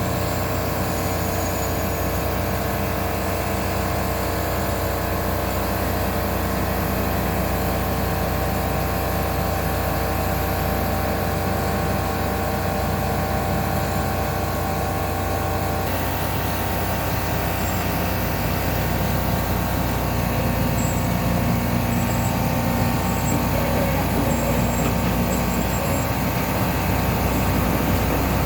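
Kobelco SK200 hydraulic excavator's diesel engine running steadily. Its note changes about halfway through and it grows slightly louder later on.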